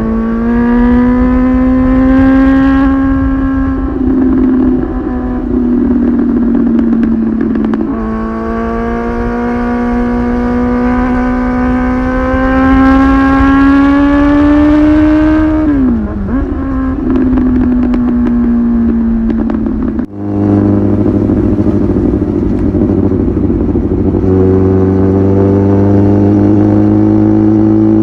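Kawasaki ZX-10R's inline-four engine through an aftermarket titanium muffler, heard from onboard while riding: a loud, steady exhaust note that climbs slowly in pitch through the middle, dips briefly, then cuts out for an instant about two-thirds of the way through before carrying on at a steady, slightly lower note.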